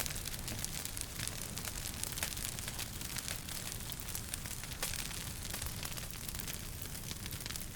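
Wood fire crackling in a fireplace: irregular sharp pops and snaps over a steady hiss and low rumble of the burning, with one louder pop about five seconds in.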